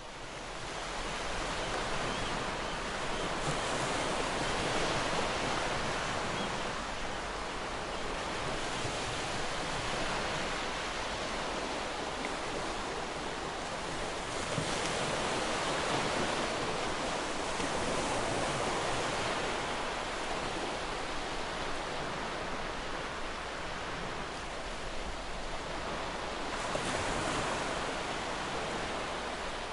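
Ocean surf: a continuous wash of breaking waves that swells and eases every few seconds. It fades in over the first second or two.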